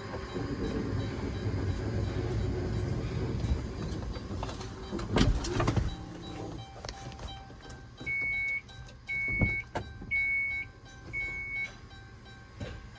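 Motorised mechanism on a 2017 Dodge Caravan running with a low rumble, then a heavy thump about five seconds in, as of a door shutting. Four short electronic chimes follow, evenly spaced about a second apart, like the van's warning chime.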